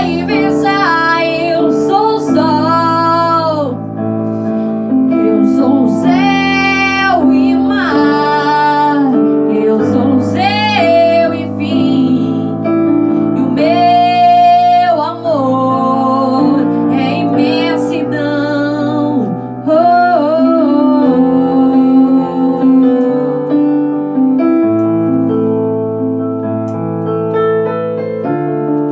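A woman singing a ballad with piano accompaniment, her voice sliding and wavering in long held notes. The voice stops about three-quarters of the way through and the piano carries on alone.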